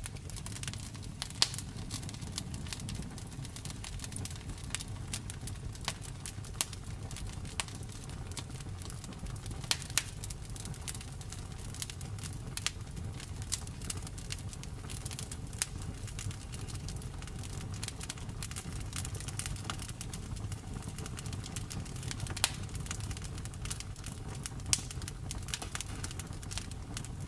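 Wood fire crackling, with irregular sharp pops and snaps over a steady low rumble of the flames; a few pops stand out louder than the rest.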